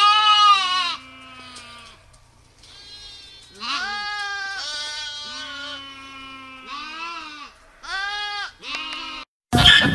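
Several sheep bleating in a run of quavering calls of different pitches, some overlapping and one long call held for about three seconds in the middle. The bleating cuts off just before the end and a different loud sound begins.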